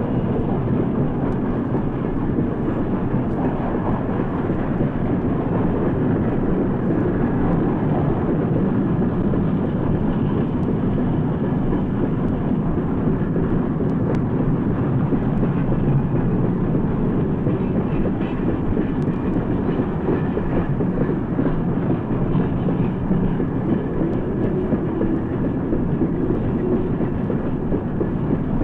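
Steam-hauled train running past with a steady rumble of locomotive and rolling cars on the rails, heard on an old recording with no high treble.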